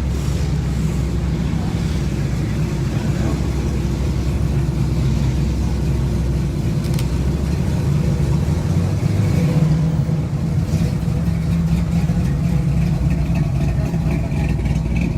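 A car engine running with a deep, steady rumble as the car rolls slowly past, swelling a little about two thirds of the way in.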